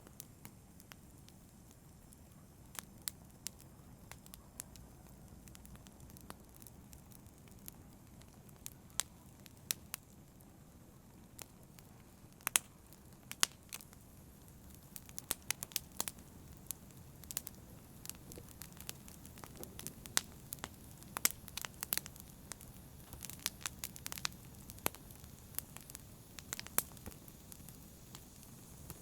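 Campfire burning with a low steady rumble and irregular sharp crackles and pops, few at first and coming thicker in the second half.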